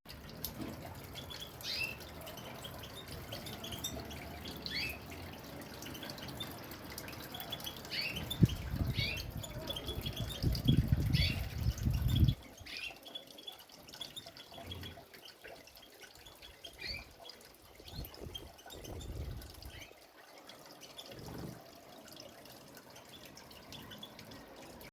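Short scattered chirps from a caged European goldfinch and canary over a dripping, trickling water sound. A loud low rumble builds about eight seconds in and cuts off suddenly about four seconds later.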